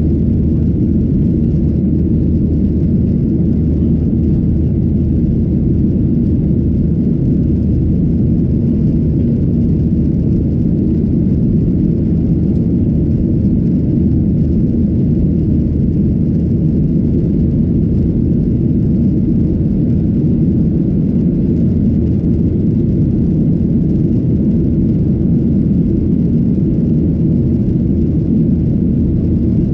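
Steady low rumble inside the cabin of a Boeing 737-800: its CFM56-7B engines running and air rushing past the fuselage, at a constant level.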